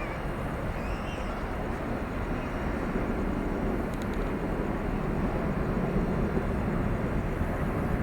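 Jet engine noise of an Airbus A330-223's twin Pratt & Whitney PW4000 turbofans at takeoff power, a steady low sound that swells slightly in the middle.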